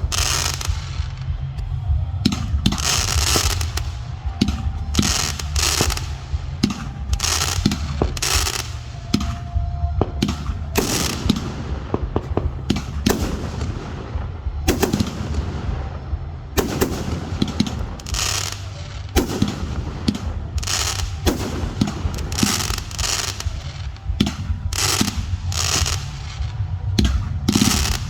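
Fireworks display: shells bursting one after another, about one to two loud bangs a second, over a constant low rumble.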